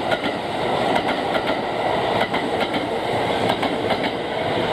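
Kintetsu Urban Liner limited express train passing at speed: a steady rushing rumble of the cars with repeated clickety-clack of the wheels over rail joints, the clicks coming in close pairs as each bogie goes over.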